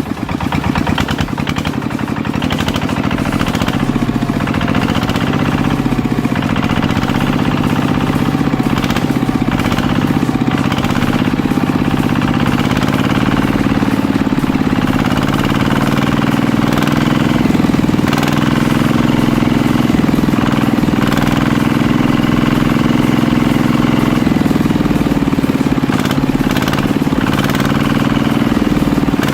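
A small engine running steadily at an even idle-like speed, with a faint wavering whine above it in the first half.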